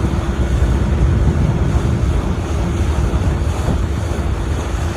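Wind buffeting the microphone over a boat moving across a lake, a steady low rumble with the rush of air and water.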